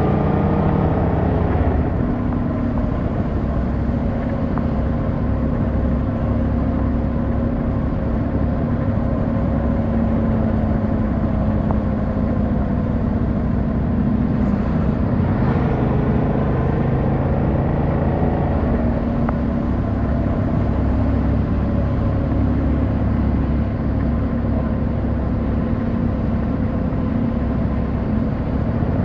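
Yamaha MT-07's 689cc inline-twin engine running at low, steady revs, heard from the rider's seat. Its pitch falls over the first couple of seconds, dips briefly about halfway through, then picks up again.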